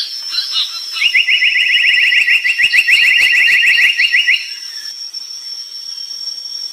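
Brown tali pocong bird singing a fast trill of short rising notes, about ten a second, lasting about three and a half seconds and then stopping, over a steady thin high tone.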